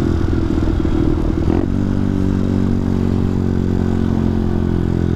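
Benelli TNT 125 single-cylinder motorcycle engine running under way. Its note changes abruptly about one and a half seconds in, then holds steady.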